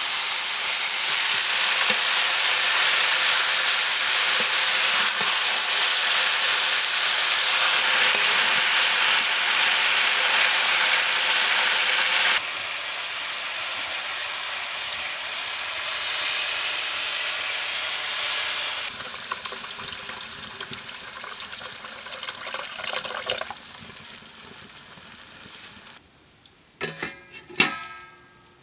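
Mutton ribs sizzling in hot oil in a pan over a wood fire: a loud, steady frying hiss that drops in steps after about twelve seconds and fades away. A few short, sharp sounds come near the end.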